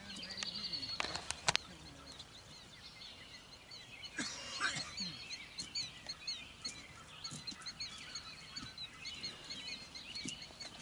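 Wild birds calling and singing in the background: many short high chirps repeating, with a few sharp clicks in the first couple of seconds and one louder, rougher call about four seconds in.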